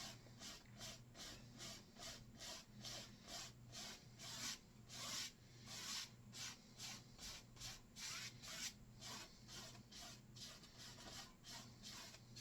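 Dry bristle brush stroking oil paint onto canvas, quick rubbing back-and-forth strokes about three a second, faint, with a low steady hum underneath.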